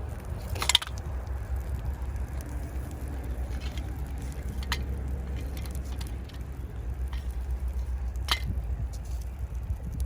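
Three sharp clinks or knocks of hard parts being handled, the first the loudest, over a steady low rumble.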